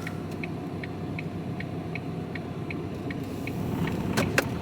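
Van's turn-signal indicator ticking evenly, about two and a half ticks a second, over the engine running. Two sharper clicks come near the end.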